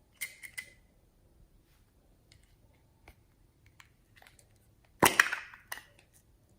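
Slime being worked by hand, giving sharp crackling pops and clicks in two clusters, one just after the start and a louder one about five seconds in, with faint scattered ticks between.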